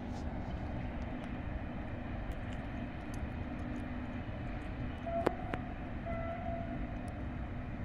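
Approaching passenger train heard from a distance: a steady low rumble with an engine drone. About five and six seconds in come two short, faint horn notes, and two sharp clicks sound about five seconds in.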